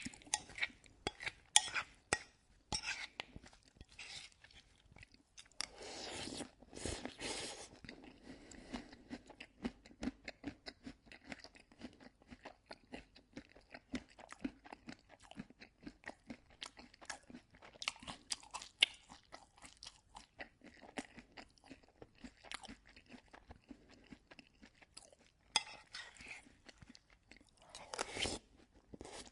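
A person eating oatmeal close to the microphone: wet chewing and mouth clicks, dense and irregular, with two longer, louder stretches about six seconds in and near the end.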